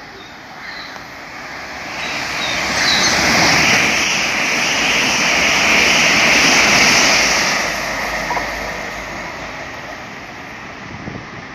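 Electric passenger train running past at speed on the near tracks: wheel and rail noise swells over a couple of seconds, holds for several seconds, then fades away.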